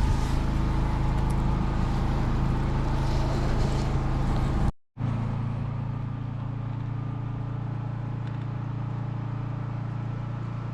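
An engine running steadily with a low hum. The sound cuts out for a moment about five seconds in, then carries on a little quieter.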